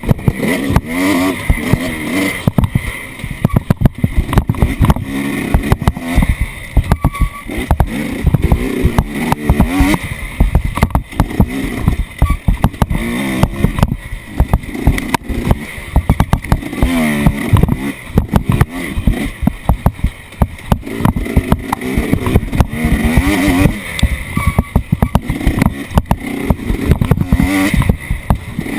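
Off-road vehicle engine revving up and down over and over, with heavy wind buffeting and knocks and jolts on the microphone throughout.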